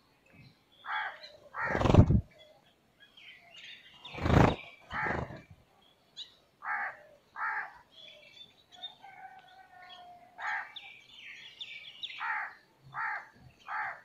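Birds calling outdoors: a series of short calls about half a second long, repeated at uneven intervals, with higher chirps in between. The two loudest calls come about two and four seconds in.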